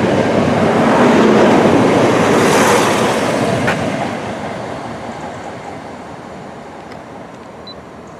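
A CrossCountry Turbostar diesel multiple unit passing through at speed: loudest in the first three seconds, then fading steadily as it moves away.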